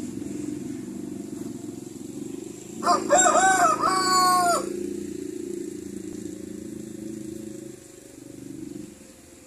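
A rooster crowing once, about three seconds in, a call of about a second and a half with a held ending. Under it runs a steady low drone that fades near the end.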